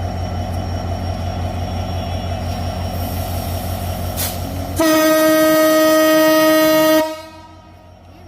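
Diesel-electric locomotive (Progress Rail GT42AC) engine running with a steady low pulsing, then its horn sounds one long, single-pitched blast of about two seconds, a little past halfway in.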